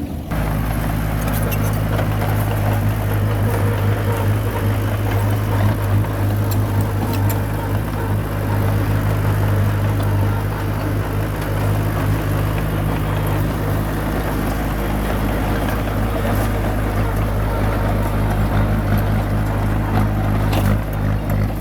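Komatsu crawler bulldozer's diesel engine running at a steady, working speed, with a rough clattering haze from the machine at work.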